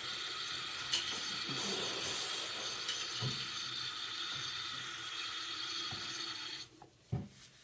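A loud electric machine running with a steady whooshing whir, then cutting off abruptly about seven seconds in, followed by a couple of small knocks.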